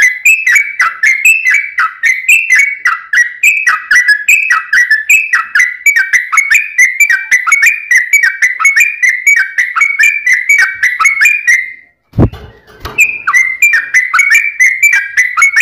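Sooty-headed bulbul (trucuk) singing fast, unbroken runs of short whistled notes that drop in pitch, several a second. About twelve seconds in there is a short break with a low thump, then the song picks up again.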